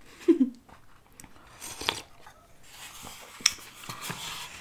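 Close-miked mouth sounds of eating sushi: chewing and biting, with a few sharp clicks and a brief vocal sound just after the start.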